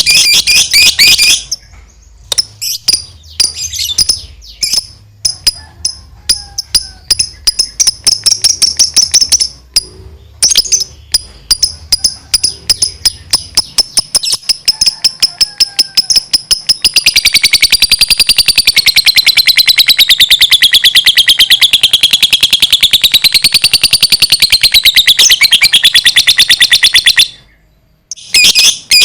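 Lovebird chattering in fast strings of sharp, high notes, then breaking into a long unbroken rattling trill of about ten seconds that wavers up and down in pitch and cuts off abruptly: the long 'ngekek' song prized in lovebirds.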